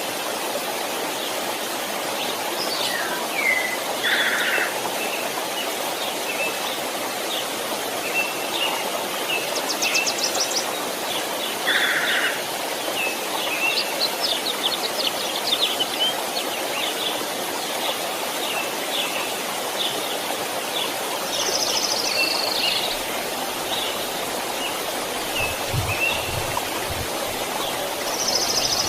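A stream running steadily, with small birds chirping and calling over it throughout. A fast trill about ten seconds in, and a few soft low thumps near the end.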